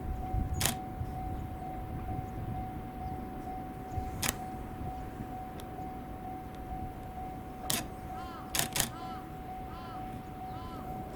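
Camera shutter firing: five single sharp clicks, the last two close together, over a steady high electronic tone. A few short chirps come near the end.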